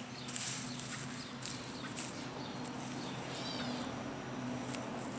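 Dry straw rustling and crackling in irregular bursts as it is handled and spread around potato plants, loudest about half a second in. A short bird call is heard about three and a half seconds in.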